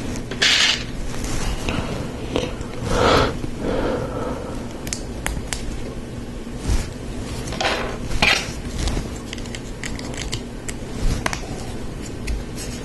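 Plastic Lego Technic parts clicking and clattering as they are handled and snapped together, with scattered sharp clicks and a few louder scraping sweeps of pieces being shifted about half a second, three seconds and eight seconds in.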